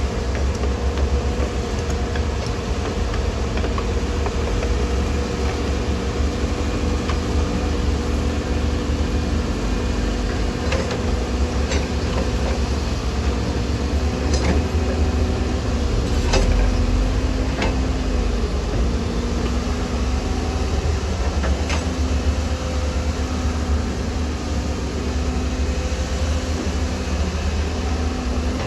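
Heavy diesel earthmoving machinery running steadily: a deep engine rumble with a few sharp metallic clanks scattered through it.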